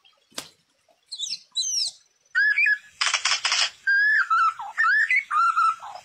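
Songbird calling and singing: a few high chirps, then a loud run of varied whistled phrases with gliding notes, broken by a harsh, noisy stretch near the middle. A single sharp click comes about half a second in.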